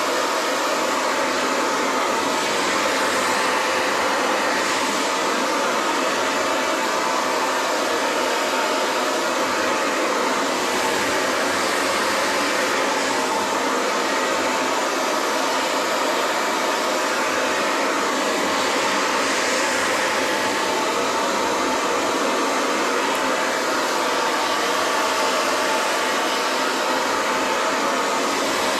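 Hand-held hair dryer blowing steadily on long hair: an even rushing of air with a faint steady whine under it, swelling slightly now and then.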